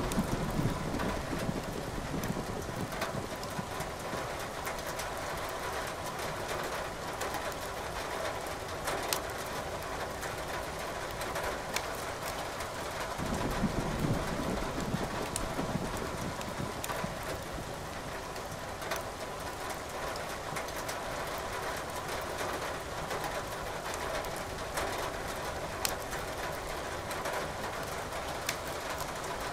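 Steady rain with a wood fire crackling in a fireplace, scattered sharp pops over the rain's hiss. Two soft low rumbles of distant thunder swell up, one at the start and one about halfway through.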